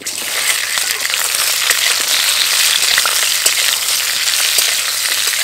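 Ripe jujubes (kul) dropped into hot mustard oil in a kadai, sizzling loudly with small pops; the sizzle starts suddenly and holds steady.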